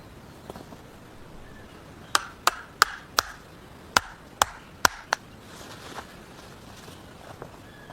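Wood being chopped with a blade: eight sharp chops in two quick runs of four, about three a second.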